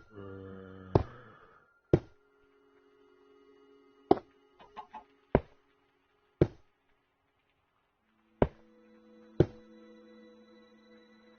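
A series of about eight sharp, short taps, roughly a second apart, over faint steady tones.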